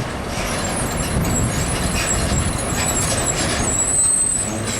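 Heavy container truck passing close by, its diesel engine and tyres making a steady rumble with road noise, and a thin high whistle about four seconds in.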